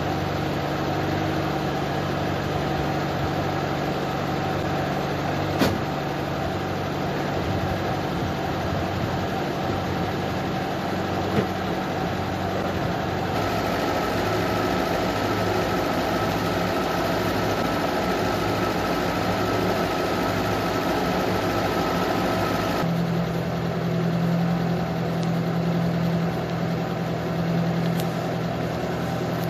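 UAZ off-roader's engine running steadily. Its note changes twice: about a third of the way in a higher whine comes in, and near three-quarters of the way the low hum grows louder. Two short clicks in the first half.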